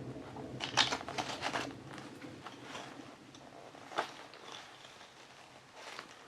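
Hands handling a knit-upper training shoe with a foam midsole, flexing and pressing it: a run of soft crackles and rustles about a second in, a single sharp click about four seconds in, then faint rustling.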